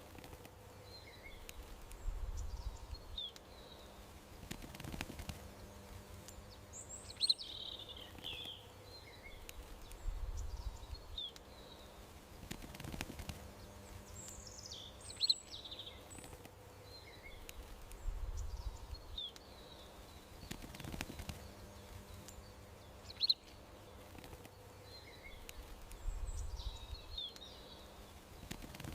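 Small songbirds chirping and twittering in short calls over a faint outdoor background with a low rumble. The same cluster of chirps comes back about every eight seconds, like a looped recording.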